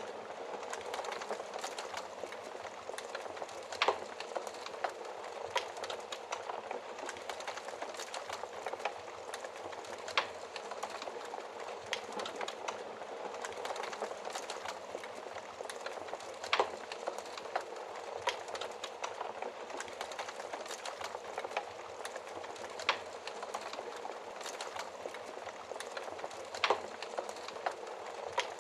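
Wood fire crackling in a fireplace: a steady hiss of burning with many small crackles and five louder, sharper pops spread through.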